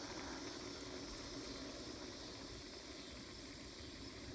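Faint, steady high insect chorus of late-summer crickets, over a low rumble from riding the bicycle.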